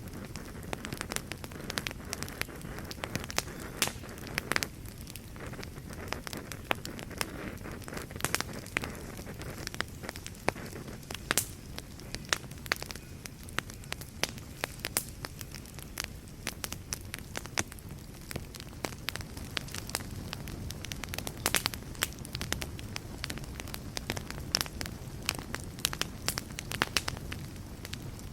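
Fireplace fire crackling: frequent, irregular sharp pops and snaps over a steady low rumble and hiss of burning.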